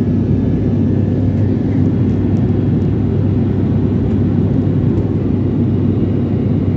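Steady engine drone and airflow noise inside an airliner cabin in flight, a loud, even low rumble with a constant low hum.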